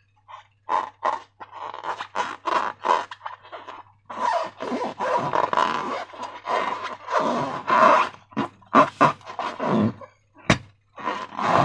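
Slime being squeezed and squished with a balloon: wet squelching, sometimes with a farting squelch, in irregular bursts that come faster in the second half. A single sharp snap comes near the end.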